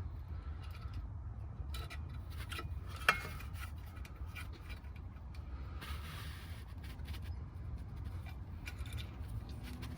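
Small metal clicks and scraping of pliers working a new cotter pin through a castle nut on a ball joint, with one sharp metallic click about three seconds in and a short scrape around six seconds, over a low steady rumble.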